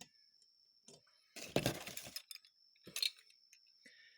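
Small metal carburetor parts clinking and rattling as they are handled: a short burst of rattling about a second and a half in, then a single sharp click near the three-second mark.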